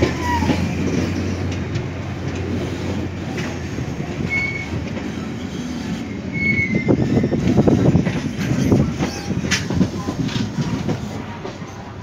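A passenger train running on the rails, heard from an open coach door: a steady rumble with the clatter of wheels over the track, louder about seven to nine seconds in, and two short high wheel squeals about four and six seconds in.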